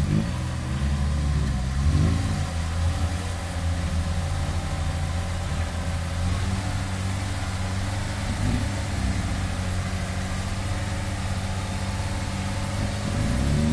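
Lada Niva's engine running at low revs as the 4x4 crawls through deep mud. It is briefly revved up in the first two seconds, again around eight seconds in, and near the end.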